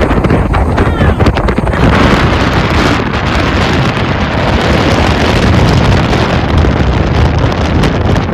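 Strong wind blasting across the microphone: a loud, continuous rushing rumble, heaviest in the low end.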